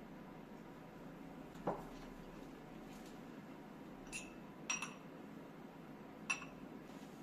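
Kitchenware being handled: a dull knock about one and a half seconds in, then several light clinks with a brief ring, two of them close together, over the second half.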